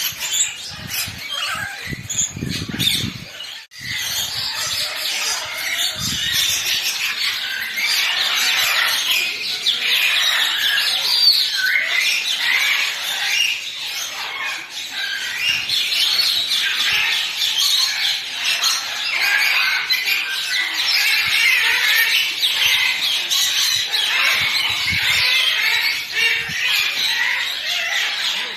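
Many birds calling at once: a dense, continuous chatter of chirps and squawks, which drops out briefly just under four seconds in.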